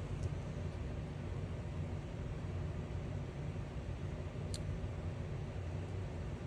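Steady low rumbling background noise, with a faint click about a quarter of a second in and another about four and a half seconds in.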